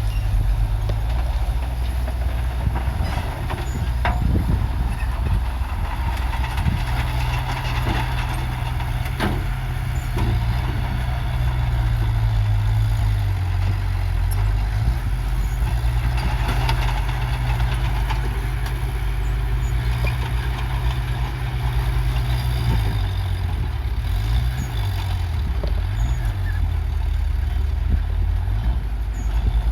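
Heavy diesel engine of an earthmoving machine running steadily, its pitch rising and falling several times near the end, with a few light knocks.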